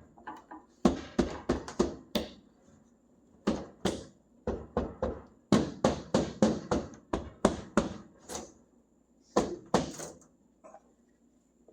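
Rapid clusters of dull knocks and thumps against a 1965 Chevrolet C10 truck cab as the back window glass, held in its old rubber seal, is pushed and worked loose from the opening.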